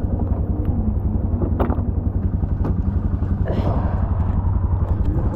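An engine idling steadily with a low, even pulse, with a few sharp clicks and knocks over it.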